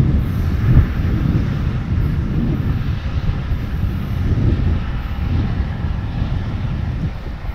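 MARC push-pull commuter train pulling away down the line: a steady low rumble of its diesel locomotive and wheels on the rails, swelling and easing irregularly.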